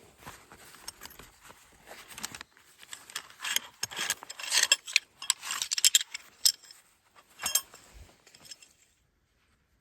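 Light clinking and rattling, a quick run of sharp clicks that is busiest a few seconds in and stops near the end.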